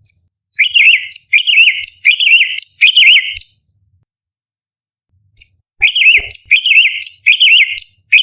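Orange-bellied leafbird singing: a quick string of repeated zigzagging whistled phrases, about five in a row, then a pause of nearly two seconds and another run of the same phrase.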